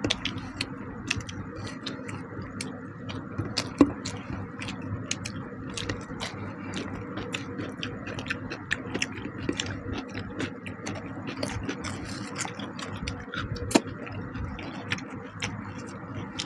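Eating sounds: many small irregular clicks and scrapes of hands and food on plates, with two louder knocks, about four seconds in and near the end, over a steady low hum.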